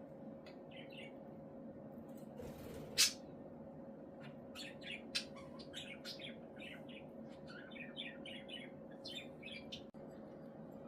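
Budgerigars chattering in quick runs of short high chirps, with one loud, sharp, brief sound about three seconds in.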